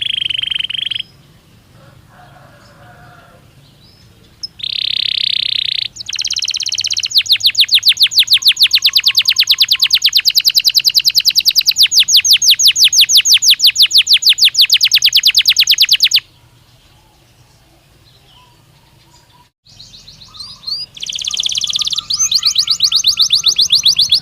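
Domestic canary (Belgian canary) singing loudly: short high held notes, then a long fast trill of evenly repeated notes lasting about ten seconds, a pause of a few seconds, and another trill starting near the end.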